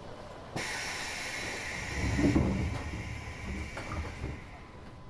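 Pneumatic doors of an Eidan 6000-series subway car closing: a sudden hiss of compressed air about half a second in, then the doors thud shut about two seconds in, followed by a low rumble.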